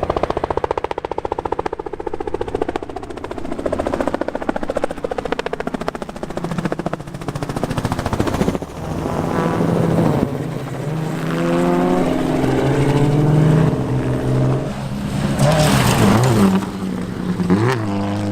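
A loud engine running. It pulses rapidly for the first half, then drones at a steady pitch that shifts up and down in steps, gliding in pitch near the end.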